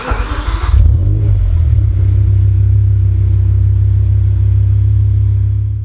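BMW E60 M5's V10 engine starting: it catches with a burst of noise and flares for about a second, then settles into a steady, deep idle.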